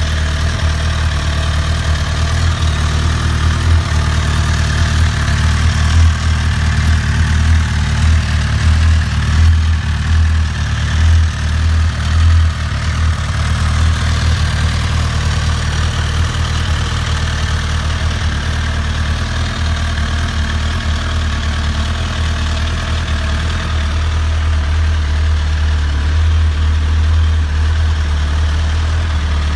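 Suzuki GSX-R1000 (2007) inline-four engine idling through its exhaust, a steady low note that wavers a little in the first half.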